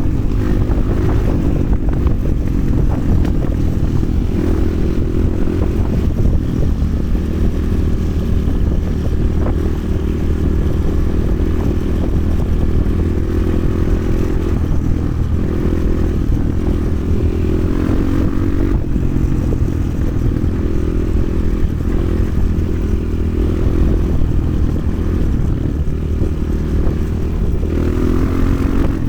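Motoland XR 300 Lite enduro motorcycle's single-cylinder engine running under way, its revs climbing and dropping with the throttle several times, notably about halfway through and near the end, over a heavy low rumble and some rattling.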